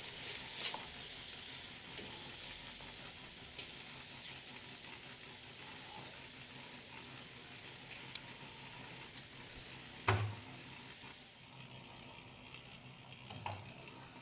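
Meat sizzling in a hot peka pan as it browns for a crust, a steady hiss that thins out near the end. Twice there is a knock, the first about ten seconds in.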